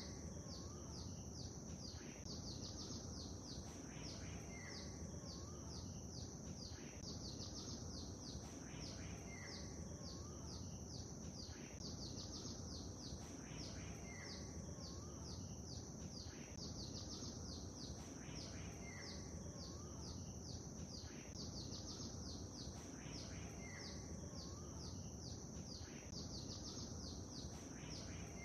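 Small birds chirping in rapid, dense twitters over a steady low rush of gentle lake water. The same pattern of calls comes round again about every four and a half seconds, like a short repeating loop.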